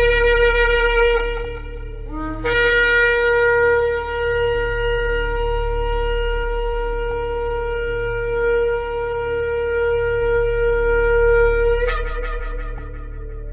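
Shofar (ram's-horn trumpet) blasts: a short blast, a brief note, then one long held blast of about nine seconds that breaks upward in pitch near the end and fades out. A low steady hum runs underneath.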